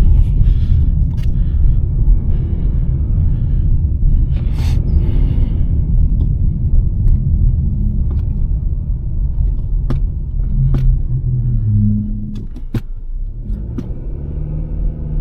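2023 Nissan Sentra being driven: a steady low rumble of road and engine noise, with scattered sharp clicks and knocks. The rumble eases a little about twelve seconds in.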